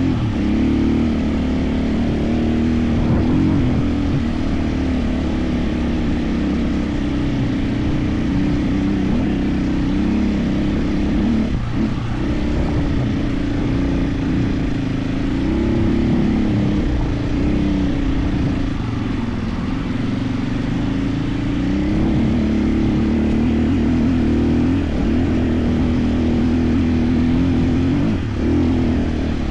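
KTM 450 EXC enduro motorcycle's single-cylinder four-stroke engine running under way off-road, its note rising and falling with the throttle.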